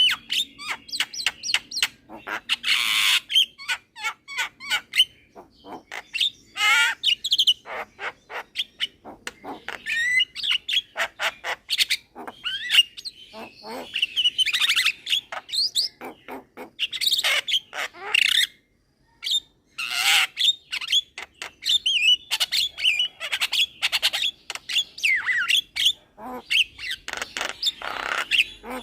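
A young Javan myna singing without letup: a fast jumble of sharp clicks, short whistled slides and harsh, raspy notes, with a brief pause a little past the middle.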